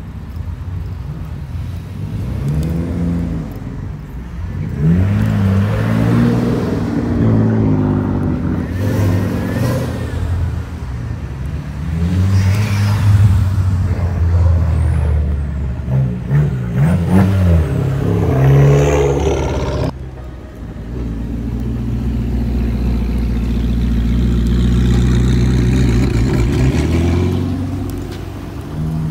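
Cars pulling away one after another, among them a Honda Civic Type R and a Fiat 500, their engines revving up and down with loud exhausts. About two-thirds of the way through the sound cuts off abruptly, and a steadier engine note follows, slowly rising and falling.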